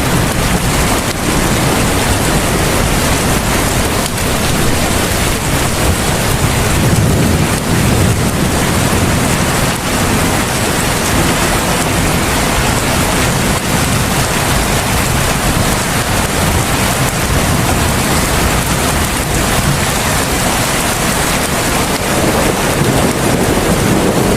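Heavy rain falling steadily, a dense even hiss, with a low rumble swelling briefly about seven seconds in.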